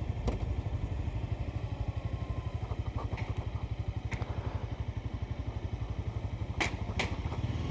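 Motorcycle engine running at low revs with an even, rapid pulsing beat, as at a slow roll or near idle. A few sharp clicks cut through it, two close together near the end.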